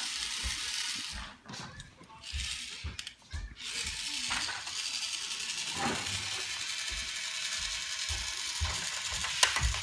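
Toy screwdriver driving a screw back into a take-apart toy tractor: a steady mechanical run with a couple of short stops early on and small knocks of the parts being handled.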